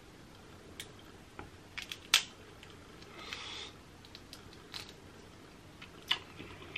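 Crab-leg shells cracking and snapping by hand, a few sharp clicks with the loudest about two seconds in, and a brief rasp around three seconds in as meat is pulled from the shell.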